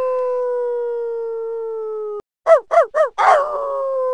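Dog howling: a long howl sinks slowly in pitch and breaks off about two seconds in, then after a short pause come three quick yips and the start of another long howl.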